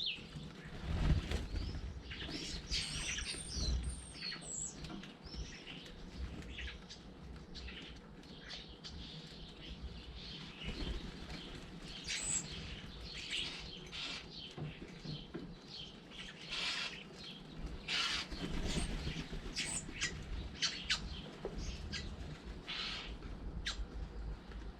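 Garden birds feeding, with many short chirps and calls scattered through and some wing flaps.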